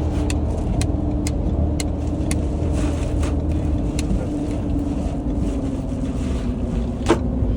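Inside a moving car: a steady road and engine hum, with a turn-signal indicator ticking about twice a second for the first few seconds. Near the end comes a single sharp knock.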